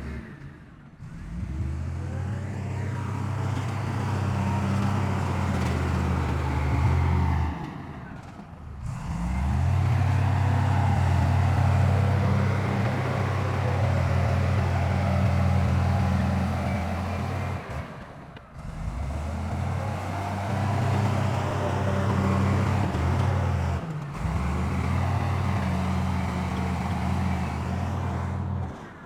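Heavy diesel engine of earthmoving machinery running steadily under load. The sound dips out briefly four times and picks up again as the shots change.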